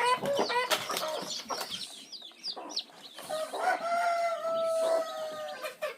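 Domestic chickens clucking and squawking, with quick high chirps in the middle and one long, steady drawn-out call lasting about two seconds near the end.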